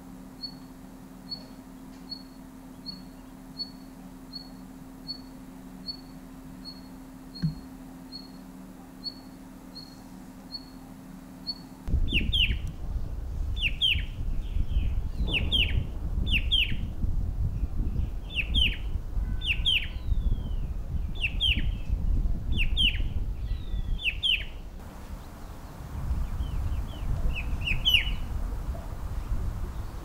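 Small birds calling. First comes a thin high note repeated evenly, about every two-thirds of a second. Then, abruptly louder, come clear downward-slurred calls about once a second, which thin out to a few near the end.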